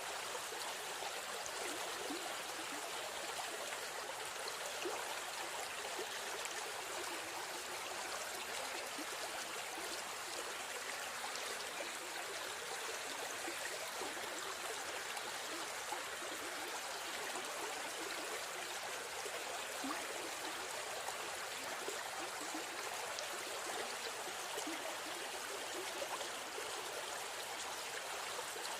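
River stream running: a steady rush of flowing water with small gurgles and splashes.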